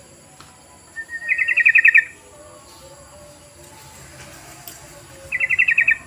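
Yellow-vented bulbul (trucukan) song, used as a lure call: two short phrases of quick repeated notes, about a second in and again near the end, each lasting under a second.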